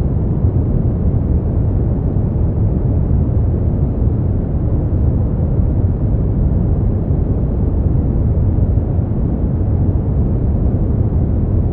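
Steady generated sleep-aid noise, sold as white noise but heavy in the low end: an even, deep rumbling hiss with little treble, unchanging throughout.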